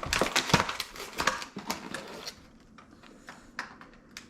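Packaging of a boxed toy car being opened by hand: dense crinkling and clicking of cardboard and plastic for about two seconds, then a few scattered clicks.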